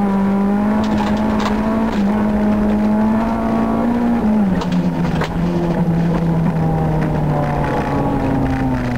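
Honda Civic rally car's engine heard from inside the cabin at speed. It holds a steady note with a brief dip about two seconds in, then drops about four seconds in and slides slowly lower. A few sharp knocks cut through it.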